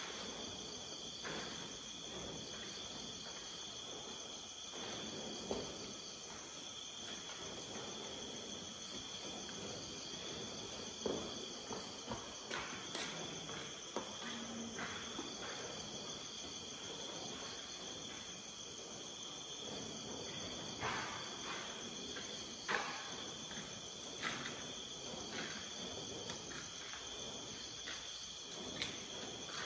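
A steady chorus of crickets and other night insects trilling, with a few scattered short knocks and clicks, the loudest around the middle and again later on.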